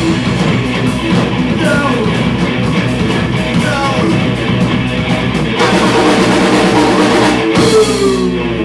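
Rock band playing live on guitar and drum kit. The music gets louder a little past halfway.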